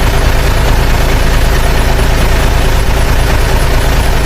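Heavy truck engine running steadily: a loud, low rumble.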